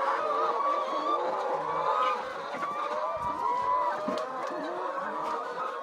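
A flock of chickens calling and clucking, many overlapping voices at once with no let-up.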